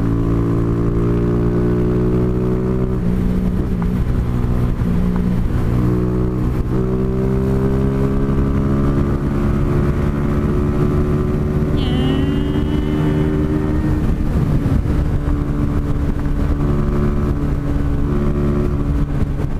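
Honda CG Fan 150's single-cylinder four-stroke engine running steadily while the motorcycle cruises on the highway, its pitch shifting slightly a few times, with wind rushing over the helmet camera's microphone.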